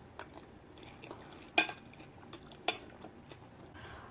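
Eating utensils clicking against a dish or food container: two sharp clinks a little over a second apart, with fainter taps around them.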